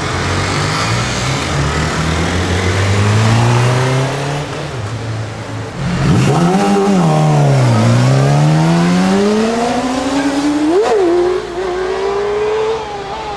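Sport motorcycle engine revving and accelerating, its pitch climbing in steps. About six seconds in it swings sharply up and down and then climbs steadily again, with a quick blip near the end.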